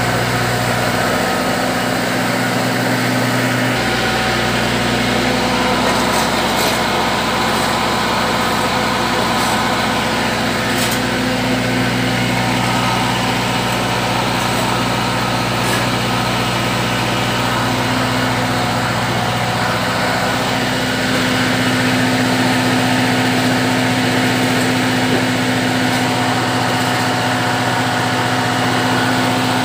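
Fish feed pellet machine running steadily, driven by its D4 drive engine, with a constant engine hum and a few faint ticks.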